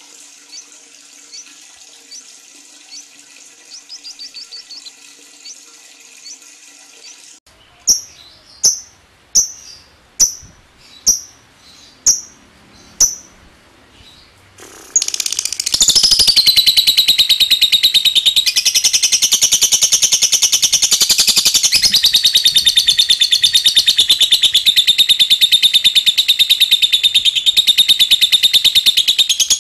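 Lovebird calling: faint chirps, then about seven loud single calls spaced less than a second apart, then from about halfway a loud, long, unbroken rapid chattering trill, the 'ngekek panjang' (long ngekek) song.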